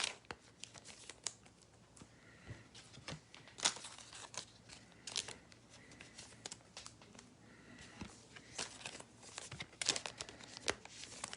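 A trading-card pack wrapper crinkling and tearing, with cards handled, in faint, irregular short crackles and rustles.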